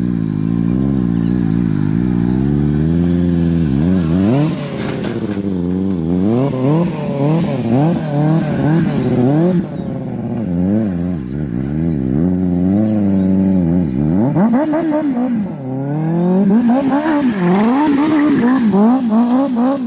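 Motorcycle engine revving up and down over and over as the throttle is worked, the pitch climbing and dropping about once or twice a second, typical of a rider holding wheelies.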